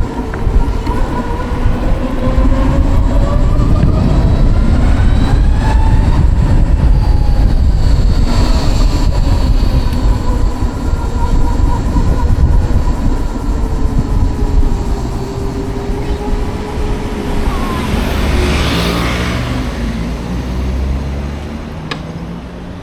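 The Savic C3 electric motorcycle's permanent-magnet motor and drivetrain whine on the move: several thin tones rise and fall together as the bike speeds up and slows. A heavy low rumble runs underneath, and a hissing swell comes and goes about three-quarters of the way through.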